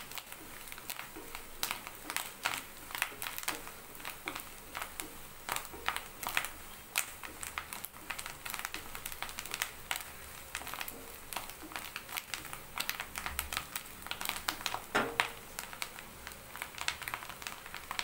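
Food frying in oil in a nonstick pan, a dense irregular crackling and sizzling, with a wooden spatula stirring and scraping through it.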